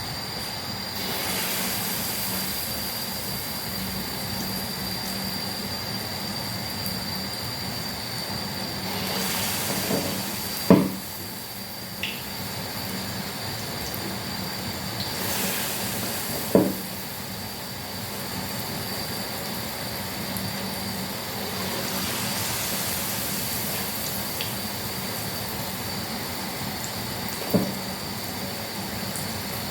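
Puff-puff dough balls deep-frying in a pot of hot oil, a steady sizzle with a thin high tone above it. A metal spoon knocks sharply against the pot a few times, about eleven, sixteen and twenty-seven seconds in.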